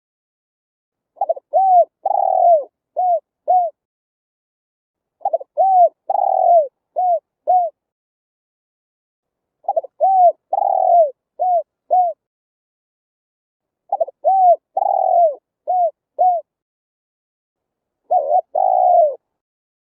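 Spotted dove cooing: a phrase of two short coos, one longer drawn-out coo and two more short coos, repeated about every four seconds with complete silence between phrases.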